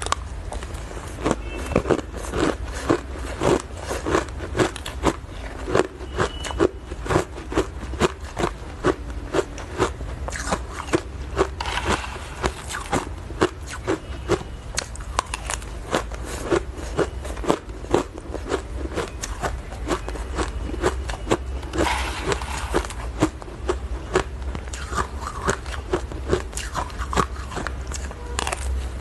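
Ice being bitten and chewed close to the microphone: a steady run of sharp crunches, roughly one or two a second, with smaller crackles of breaking ice between them, over a steady low hum.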